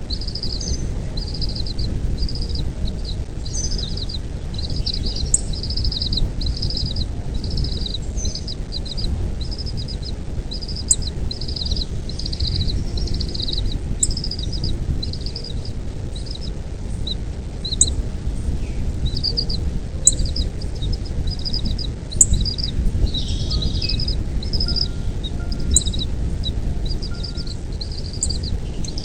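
A bird chirping: short high chirps repeated over and over in quick runs, over a steady low rumble of noise.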